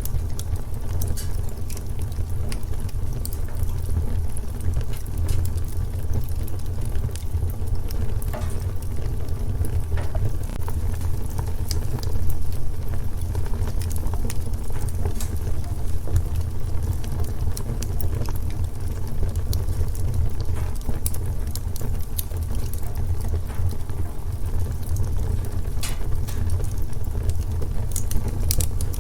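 Wood fire in a fireplace crackling, with a steady low rumble under many scattered sharp pops and snaps.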